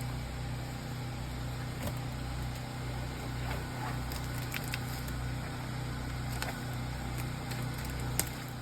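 An engine idling steadily with a low hum, with a few light clicks and knocks, the sharpest near the end.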